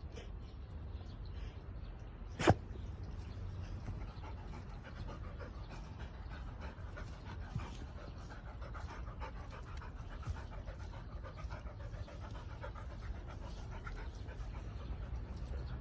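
A mixed-breed dog panting in quick, repeated breaths, with one sharp click about two and a half seconds in.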